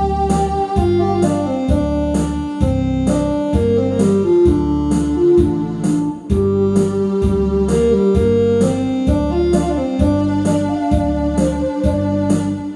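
Instrumental interlude of a Korean trot backing track: an electronic keyboard melody in held notes over a steady beat and bass.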